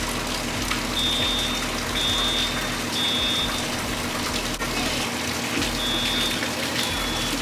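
Steady rush of water pouring from a burst fire-sprinkler system, with a high electronic beep repeating about once a second over it.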